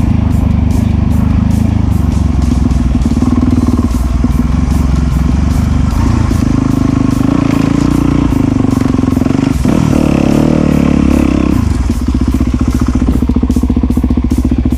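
Enduro dirt bike engine running hard on a muddy trail, revving up and down as the rider works the throttle.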